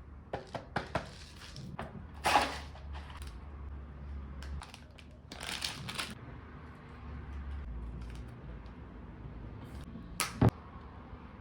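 Close-miked eating sounds: crunching bites into crispy fried chicken strips, in short noisy bursts, the biggest about two seconds in and again around five to six seconds in, with scattered sharp clicks and one sharp click near the end.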